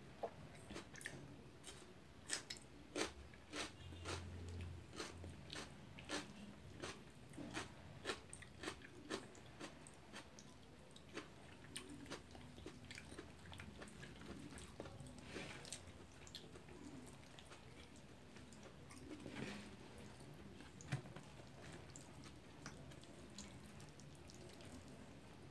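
Close-up eating sounds of steamed chicken: chewing and biting with frequent short wet mouth clicks and smacks, densest in the first ten seconds or so and sparser after.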